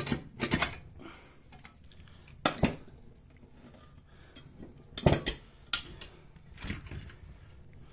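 A handful of sharp, separate clinks and knocks of hard objects being handled, spaced a second or more apart, with quiet between them.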